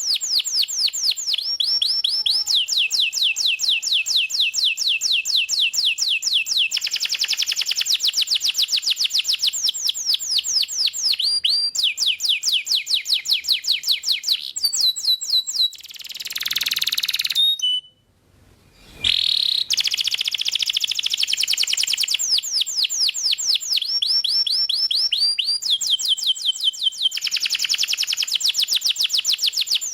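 Domestic canary singing a rapid rolling song: repeated sweeping notes at about ten a second, switching to a new trill phrase every few seconds. Midway there is a short hissing rush and a second-long break before the trills resume.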